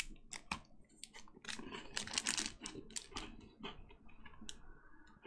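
Biting and chewing a McVitie's Penguin chocolate-coated biscuit bar: an irregular run of soft crunches and clicks, busiest about two seconds in.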